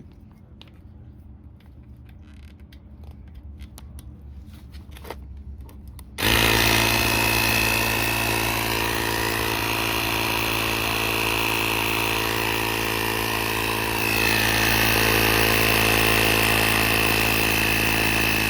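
Faint clicks and handling noises, then an air compressor switches on suddenly about six seconds in and runs steadily, inflating a dirt bike's front tire. Its sound shifts slightly in pitch and gets a little louder about eight seconds after it starts.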